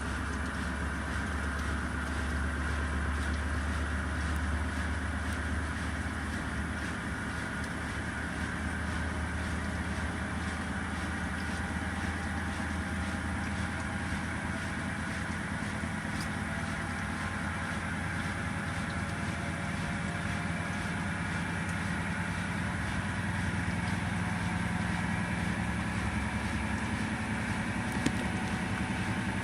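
Simpson 8.5 kg washing machine running with a steady motor hum and a low drone, its tones drifting slowly in pitch, with a single click near the end.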